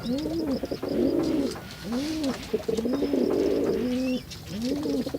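Pigeons cooing over and over, low rising-and-falling coos about once a second, some of them overlapping.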